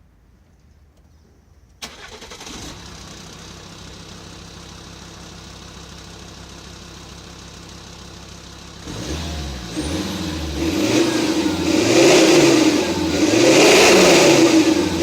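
Alfa Romeo 2.4 JTD five-cylinder turbodiesel, breathing through a custom downpipe and a Fox exhaust, starts up about two seconds in and idles steadily. From about nine seconds in it is revved several times, the pitch rising and falling, loudest on the last revs.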